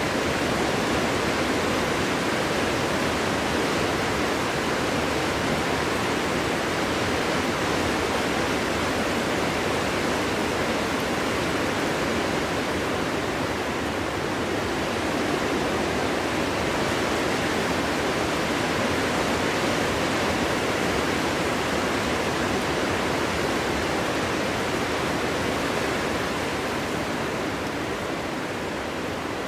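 Winter wind blowing through a forest: a steady, even rushing noise that eases slightly near the end.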